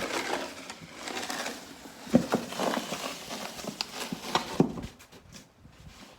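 Snow being shovelled: a metal shovel scraping and crunching through packed snow, with a few sharp knocks in the middle, then quieter near the end.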